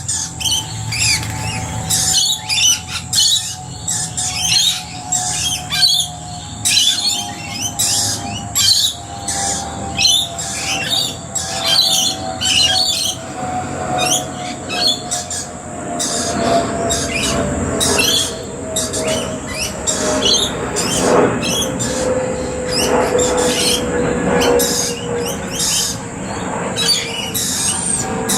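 A flock of rainbow lorikeets and other birds calling constantly with short shrill squawks. Under them an aircraft passes overhead, its drone slowly falling in pitch and growing fuller toward the second half.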